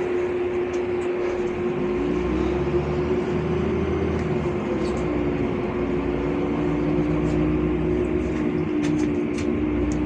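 Cabin sound of a LiAZ 5292.65 city bus under way: the drivetrain drones with a steady whine. A second whine slides in pitch and a deep rumble swells from about two seconds in as the bus pulls.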